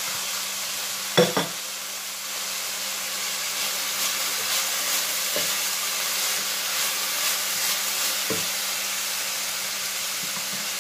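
Vegetables and scrambled egg sizzling in a hot pan as a spatula stirs them: a steady frying hiss. A few knocks of the spatula on the pan, the loudest about a second in.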